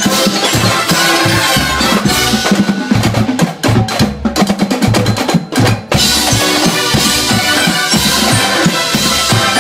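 Drum corps brass and drum line playing together. Around three seconds in, the drums take over with a run of sharp, separated strikes, and at about six seconds the full ensemble comes back in.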